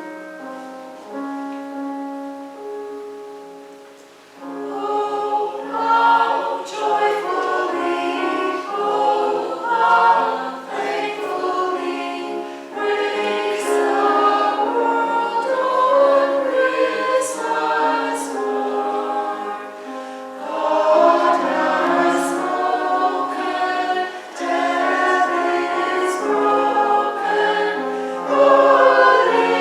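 Church choir singing a sung response with keyboard accompaniment. A few seconds of held keyboard chords fade away, then the choir comes in at full voice about four and a half seconds in.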